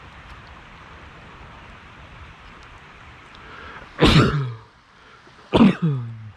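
A person coughing twice, loud and sudden, about a second and a half apart, each with a falling voiced tail, over a steady background hiss.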